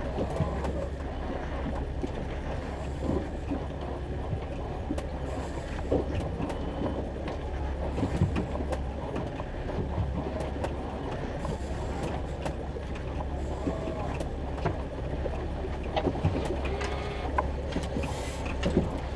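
Boat motor running steadily under way, with scattered knocks and clatter of gear on the hull.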